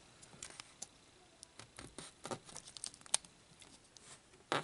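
Small plastic model parts being handled and pressed together: scattered faint clicks and taps, with a sharper click about three seconds in and a louder knock near the end.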